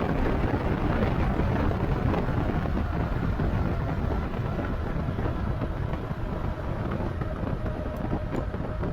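Steady wind rush over the microphone and road noise from a moving e-bike, with no break in it. A faint, steady tone sits under the noise in the second half.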